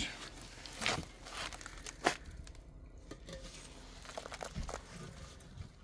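A few short scrapes and knocks of handling work, the sharpest about two seconds in, followed by softer ones.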